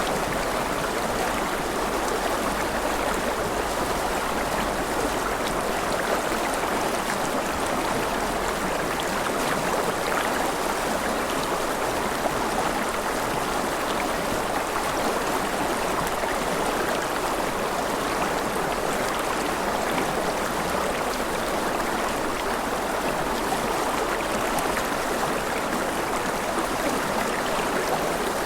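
Steady gentle rain: an even, unbroken hiss of falling water with faint scattered drop ticks.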